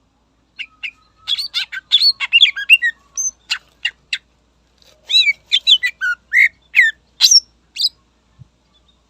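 Greater green leafbird (cucak ijo) singing a fast, varied run of loud whistles, chirps and down-slurred notes, in two bouts with a short pause about four seconds in.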